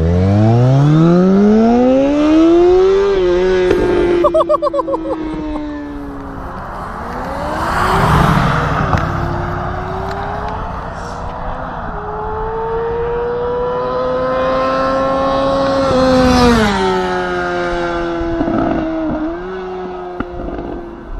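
2005 Kawasaki Ninja ZX-6R 636's inline-four running through a Two Brothers exhaust. It revs up steeply from the start, changes note about four seconds in, climbs slowly at steadier revs, and drops again about sixteen seconds in. A rush of wind comes in about eight seconds in.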